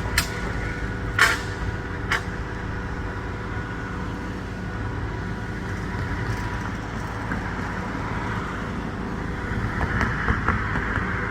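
Heavy vehicle engine running steadily with a low drone. A few sharp knocks come in the first two seconds, and a hissing noise swells near the end.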